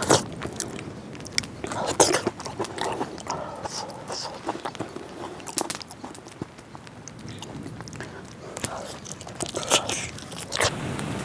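A person biting and chewing food close to the microphone: irregular crunching clicks, a few louder bites near the start, about two seconds in, and near the end.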